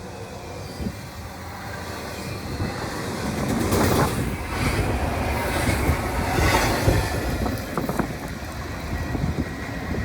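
Train passing on the track, its cars rumbling and clacking over the rails, the sound building over the first few seconds and staying loud with scattered sharp clicks.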